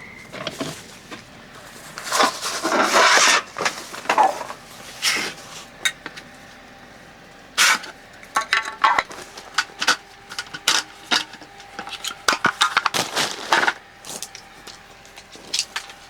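Something being pulled apart by hand: irregular clicks, knocks and cracks with bursts of rustling and scraping, the loudest bursts about two, three, five and thirteen seconds in.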